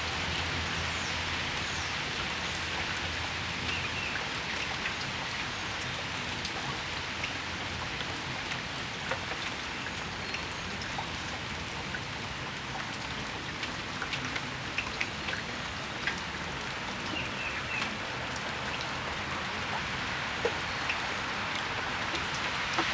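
Steady rain falling on a patio: an even hiss with scattered sharp drips tapping close by. A low rumble fades away in the first several seconds.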